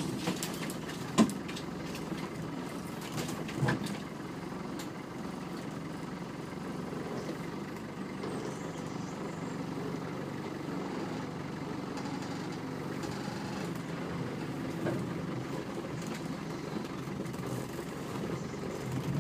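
Land Rover Defender engine running low and steady while the vehicle crawls slowly forward over muddy ground, heard from inside the cab. A sharp knock comes about a second in and another near four seconds in.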